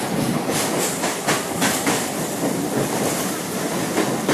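Mumbai suburban local train running, heard from inside a carriage: a steady rumble and rush with a quick run of wheel clacks over rail joints between about half a second and two seconds in.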